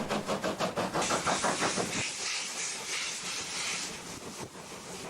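Steam locomotives 30a 271 and 18c 255 pulling away, their exhausts chuffing in a rapid run of beats. A loud steam hiss joins in about a second in and lasts to nearly four seconds, then the sound eases to a quieter rumble.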